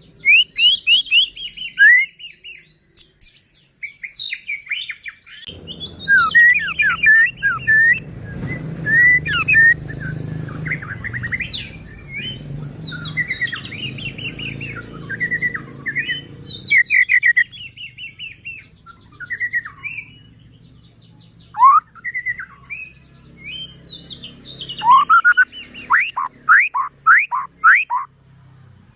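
White-rumped shama singing without pause: a long run of varied, fast-sweeping whistled phrases broken by short gaps. A faint low hum lies under it for about ten seconds in the middle.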